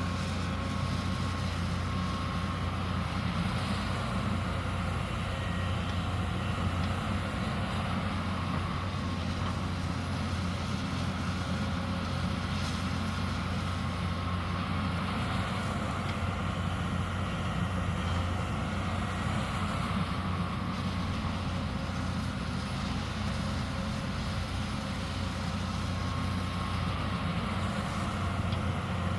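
Hyundai 220 excavator's diesel engine running steadily as it digs: a constant low drone that holds the same level throughout, with no breaks.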